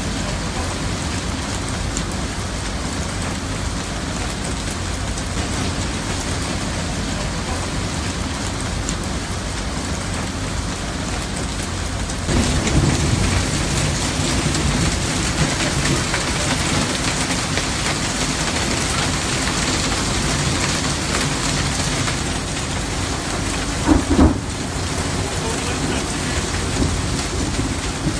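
Heavy rain pouring down in a steady, even hiss that grows louder about twelve seconds in, with a brief thump about three-quarters of the way through.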